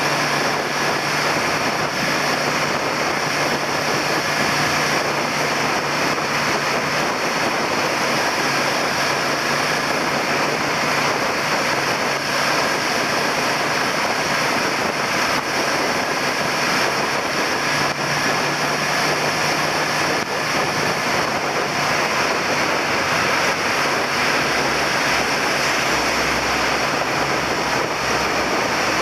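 Suzuki SV400 V-twin motorcycle being ridden at a steady pace, its engine note faint under a constant rush of wind and road noise on the handlebar-mounted camera.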